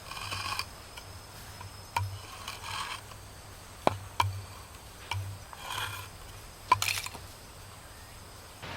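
Several sharp clicks and short scraping sounds, spaced a second or two apart, as of hard objects being handled.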